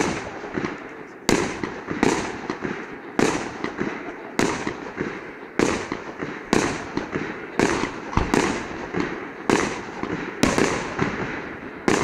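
Aerial firework shells bursting in quick succession, a dozen or more sharp bangs at roughly one a second, each followed by a rolling echo that dies away.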